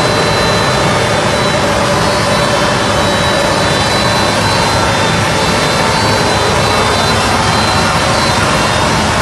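De Pietri RS 78 trimming and vacuuming machine running steadily: a loud, even rush of air from its suction fan, with a faint high whine over it.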